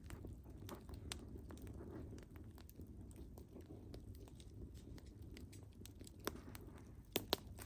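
Wood fire crackling: a steady low rush of burning with scattered sharp pops and snaps, two louder pops close together near the end.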